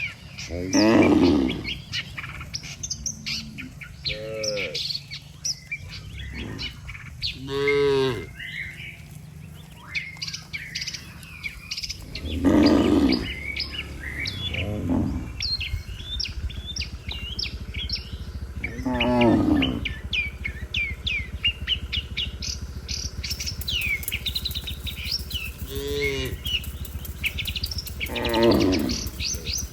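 Cattle mooing, about eight long calls spread through the time, over steady chirping of small birds.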